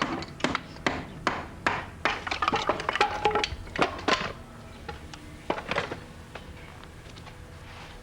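Quick, irregular knocks of a hand tool chopping into wood, hewing out a freshly sawn piece. They come several times a second for about four seconds, then a few more blows follow just before six seconds.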